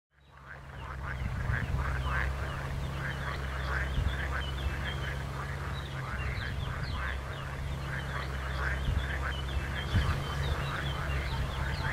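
A dense chorus of short, repeated animal calls over a steady low hum, fading in at the start.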